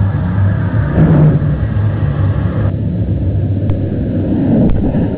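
Jet-powered quad bike's engine running with a loud, steady low rumble.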